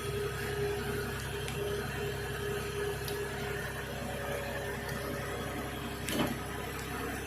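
A machine's engine running steadily with a constant low hum, with a brief knock about six seconds in.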